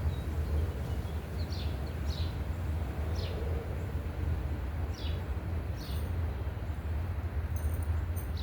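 A bird chirping, short calls that fall in pitch, several times at irregular intervals, over a steady low background rumble.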